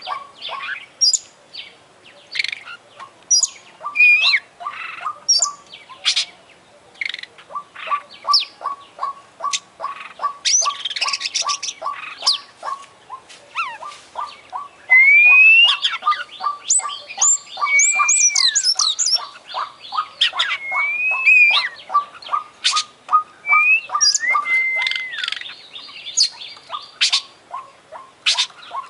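Oriental magpie-robin (kacer) singing nonstop, a varied song full of mimicked calls of other birds. A fast, even run of short ticking notes, about three a second, goes on under loud rising and bending whistles and scratchy chatter.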